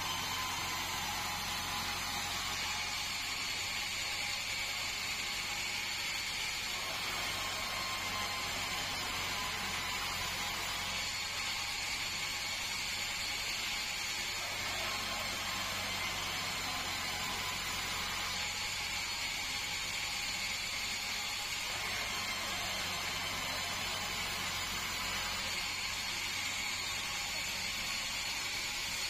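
Band sawmill running steadily: an even mechanical whir over a low hum, with no break or change.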